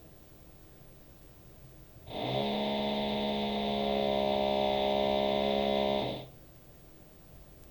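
Drilling into the floor of the flat above, heard through the ceiling: a steady, buzzing hum that starts about two seconds in, holds for about four seconds and stops abruptly.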